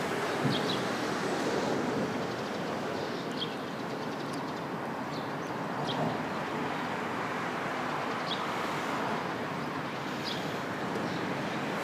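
Steady rushing outdoor background noise with faint, short, high chirps every second or two.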